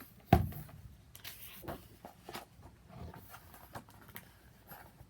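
A book being handled: a sharp knock about a third of a second in, then scattered soft taps and rustles as the pages are moved.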